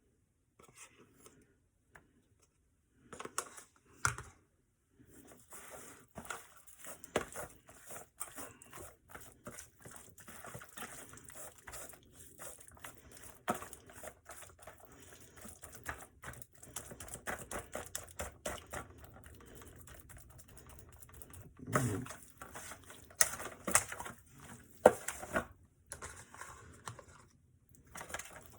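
Hands rubbing and patting seasoning into the skin of a raw bird in a bake pan: irregular rustling and soft slaps, with a few louder knocks near the end.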